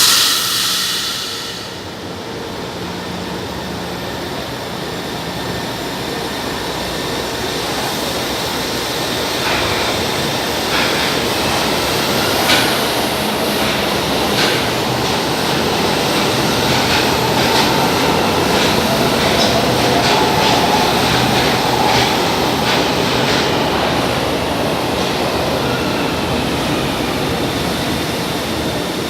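São Paulo Metro Line 1 train running through the station, its noise building to a peak about two-thirds of the way through, with repeated clicks of the wheels over rail joints and a wavering whine, then easing. A brief loud hiss at the very start fades within about two seconds.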